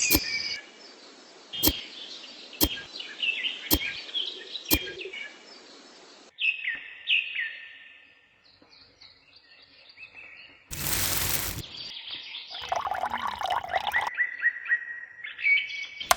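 Small birds chirping and twittering, with five sharp clicks about a second apart in the first five seconds and a brief loud burst of noise about eleven seconds in.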